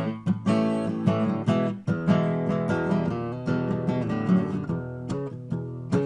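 Acoustic guitar strummed in a steady rhythm with no singing: an instrumental break between verses of a folk song.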